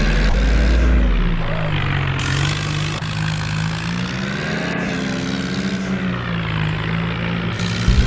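Swaraj tractor's diesel engine running hard, its note slowly rising and falling.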